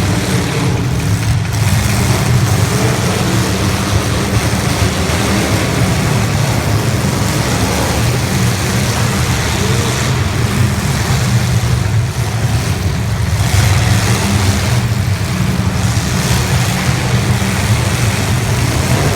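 Engines of several 1980s stock demolition derby cars running loud at the same time, a dense, steady low rumble.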